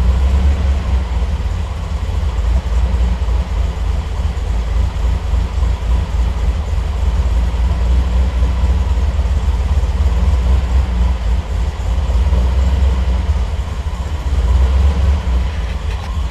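Triumph TR8's Rover V8 idling steadily after a cold start, with a low, even burble, its Megasquirt 3 Pro fuel injection still on warm-up enrichment while the idle fuelling is auto-tuned.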